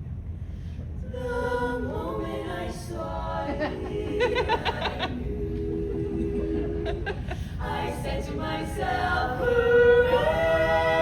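A cappella vocal group singing in close harmony, entering about a second in with held chords that shift in pitch.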